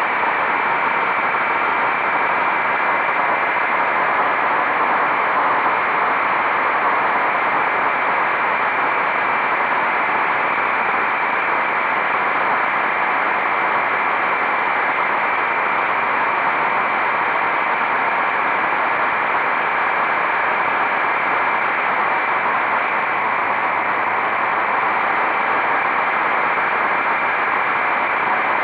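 Motorcycle riding at a steady speed: wind rushing over the camera microphone, with a faint, even engine tone underneath.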